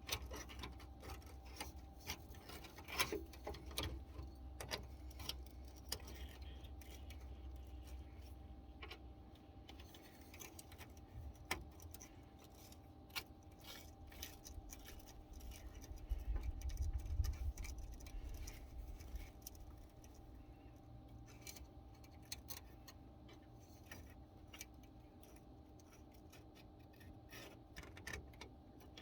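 Faint scattered metallic clicks and clinks of wrenches working the fuel line fittings on a new inline fuel filter. A low rumble swells about sixteen seconds in and fades a few seconds later.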